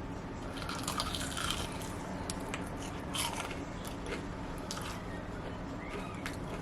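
A person biting into and chewing a sauced chicken back, with scattered short wet clicks and smacks.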